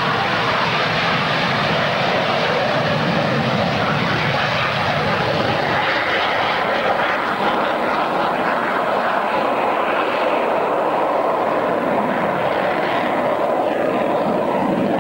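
Loud, steady jet engine noise from a Dassault Mirage fighter in flight, its tone slowly shifting as the aircraft moves.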